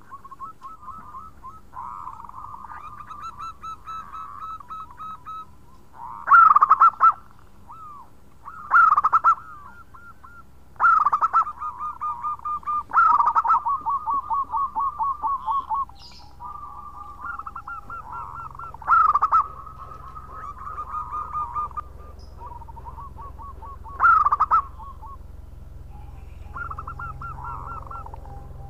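Zebra dove (perkutut) cooing, with phrases of rapid stuttering coos repeated every few seconds. Each phrase is led by a loud accented note.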